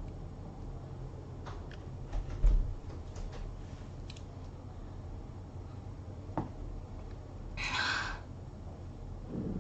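A pause in speech: a steady low electrical hum under room tone, with a few faint clicks, a low thump about two and a half seconds in, and a short hiss about eight seconds in.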